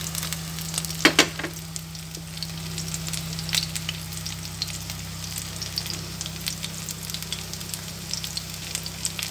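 Minced-shrimp patties shallow-frying in oil in a pan, the oil sizzling with a constant scatter of small crackles and pops and a few louder clicks about a second in; the patties are cooked through and being fried on to turn golden. A steady low hum runs underneath.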